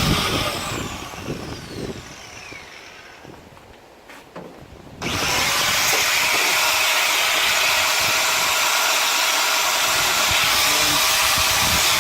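Power tool cutting through the car body's sheet steel. It winds down with a falling whine in the first few seconds, is quiet briefly, then starts abruptly again about five seconds in and runs steadily.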